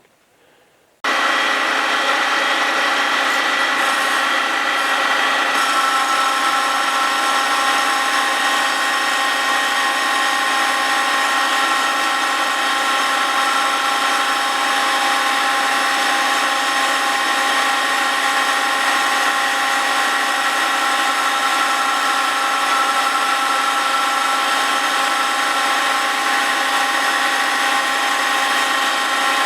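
Cincinnati milling machine spindle running a cup grinding wheel across the face of a cast-iron Willys Jeep flywheel: a steady machine whine with several held tones over a hiss, starting suddenly about a second in after near silence.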